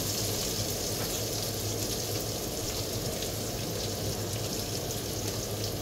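Food sizzling steadily as it fries in a non-stick wok on an electric stove, with a steady low hum underneath.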